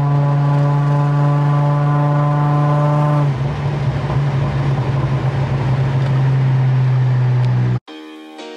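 Car engine running at steady revs, a loud, even drone with a constant pitch. About three seconds in the sound turns rougher and noisier. It cuts off abruptly near the end.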